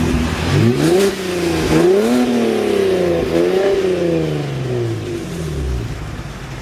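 Car engine being free-revved three times: its pitch climbs and falls with each blip of the throttle, then settles back to idle near the end.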